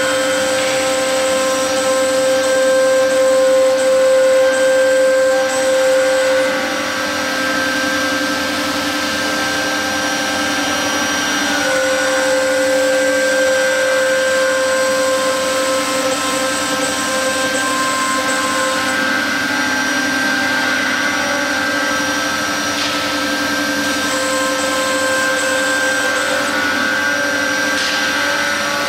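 1325 CNC router's 3.5 kW air-cooled spindle running at high speed while the bit cuts fibreboard: a steady whine over cutting noise. The tone changes in strength every several seconds, dropping about six seconds in and strengthening again near twelve and twenty-four seconds in.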